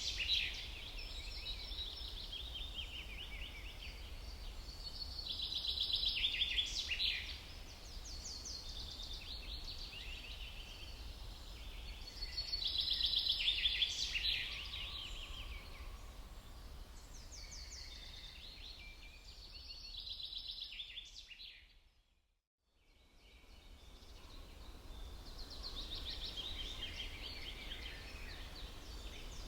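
Songbirds singing in a spring forest: rapid trilled, chattering phrases about every six to seven seconds over a steady low rumble. The sound fades out briefly about 22 seconds in, then the song resumes.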